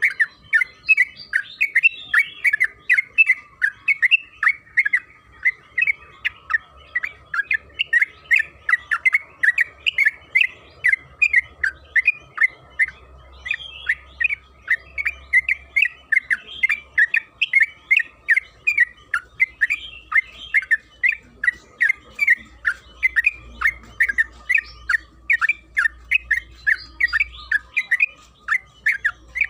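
Yellow-vented bulbul (trucukan) singing a long, unbroken run of short chattering notes, about three or four a second, the rapid 'ropel' song used as a lure to set other trucukan singing.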